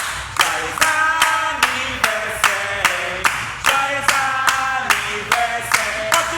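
Voices singing a chanted song over a steady beat of sharp claps, about two and a half a second.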